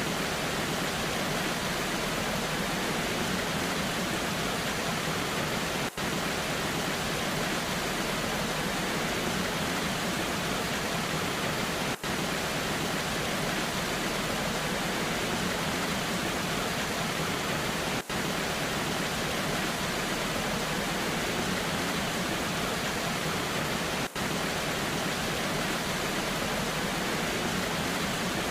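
Waterfall in the rain: a steady, even rush of falling water. A brief dropout comes about every six seconds.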